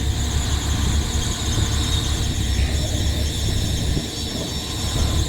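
Wind buffeting the microphone with a low rumble, under a steady high-pitched whine.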